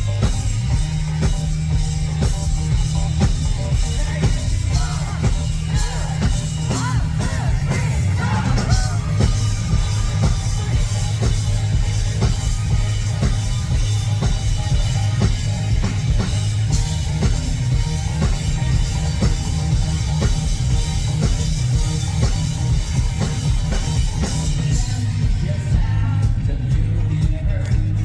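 Rock band playing live: drum kit, bass and guitars at full volume, with a steady driving beat and a wavering voice or lead line briefly rising above the band about four to nine seconds in.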